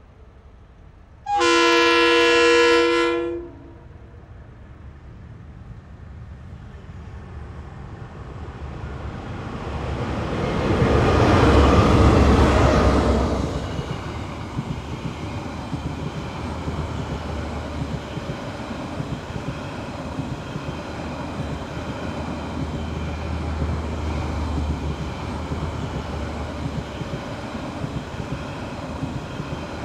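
TranzAlpine passenger train's diesel locomotive sounding its horn once, a chord of several notes held for about two seconds. The train then rumbles past, swelling to its loudest about twelve seconds in and easing to a steady drone.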